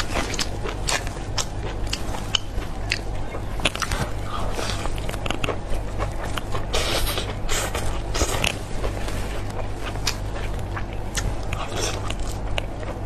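Close-miked biting and chewing of a vegetable-stuffed sausage: irregular wet smacks and clicks, several a second.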